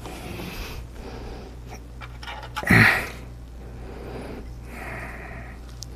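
A person breathing heavily, with a loud exasperated huff or sigh about three seconds in, over a steady low electrical hum.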